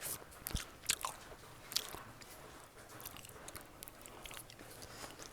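Close-up mouth sounds of a person chewing beef momo dumplings: wet smacks and clicks, a few sharper ones in the first two seconds, then softer.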